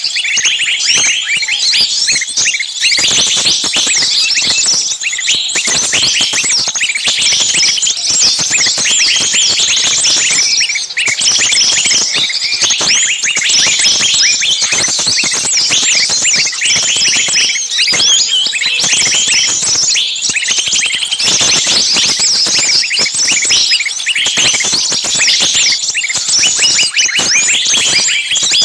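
A dense, continuous chatter of many small birds chirping at once, with short, overlapping high calls.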